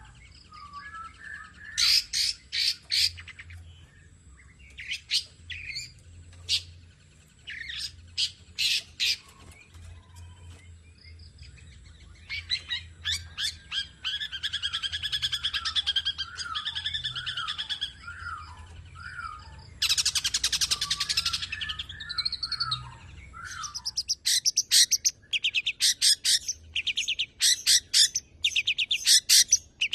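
Long-tailed shrike (cendet) singing a varied song. It opens with short groups of sharp calls, then gives a fast chattering run of mixed notes and a harsh buzzy burst about two-thirds in. It ends in long runs of rapid-fire repeated notes, the 'nembak' delivery.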